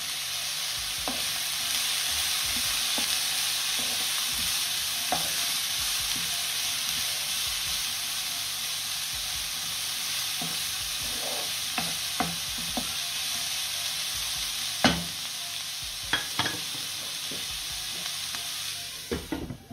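Sliced vegetables sizzling steadily in a hot wok while a wooden spoon stirs them, with a dozen or so short knocks and scrapes of the spoon against the pan. The sizzle cuts off suddenly near the end.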